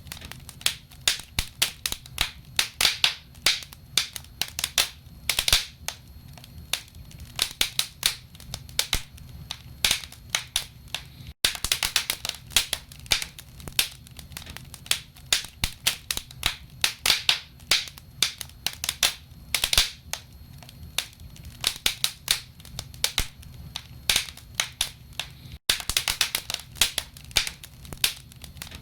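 Wood logs burning in a fireplace, crackling with a dense, irregular stream of sharp pops and snaps, several a second, over a low rumble. The sound cuts out for an instant twice, once about eleven seconds in and once near the end.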